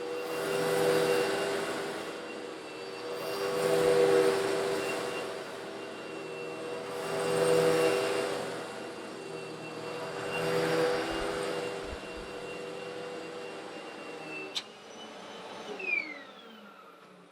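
Old Eureka vacuum cleaner running with a steady motor hum, swelling four times into a rushing rattle as it is passed back and forth over coarse stone granules and sucks them up. About fourteen seconds in it is switched off with a click, and the motor whine falls in pitch as it winds down.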